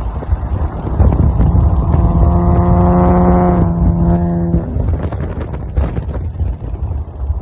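Car engine running with a heavy low rumble and wind noise on the microphone; from about a second and a half in, a steady droning tone holds for about three seconds, then fades.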